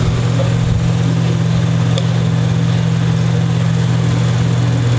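A steady low mechanical hum, with a light click about two seconds in.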